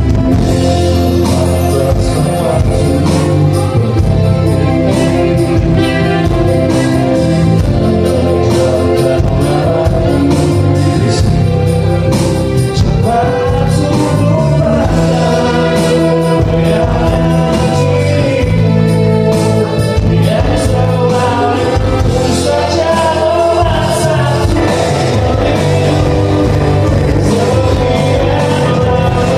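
Live band playing a song with a lead vocal, loud and continuous.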